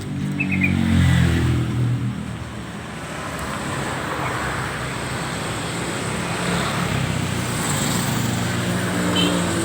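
A motor vehicle's engine passing close by on a road, its pitch dropping away over the first two seconds, then a steady rush of passing traffic, with another engine coming up near the end.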